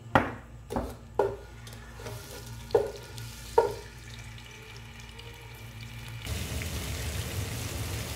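A wooden spatula knocks against a metal pot about five times while garlic, ginger and green chili paste is stirred into hot oil, over a faint sizzle. About six seconds in, a louder, steady sizzle of the paste frying takes over.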